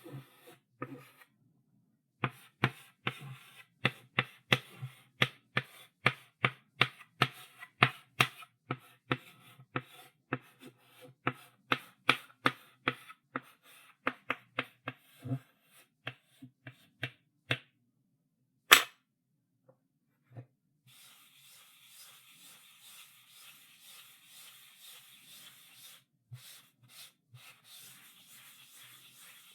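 Chalk on a blackboard: a run of sharp taps as the chalk strikes the board, about two or three a second, then a pause and one loud knock. For the last third the chalk scrapes along the board steadily in continuous writing.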